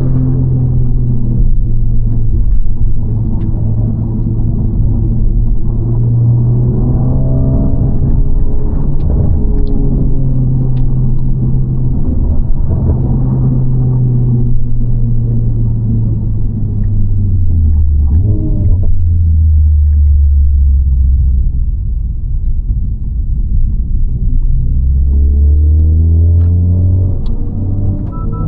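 Honda Civic FL5 Type R's turbocharged 2.0-litre four-cylinder and HKS Legamax exhaust with aftermarket downpipe, heard from inside the cabin while driving, with a deep rumble. The engine note rises and falls with the revs, drops low about two-thirds of the way through, then climbs again near the end.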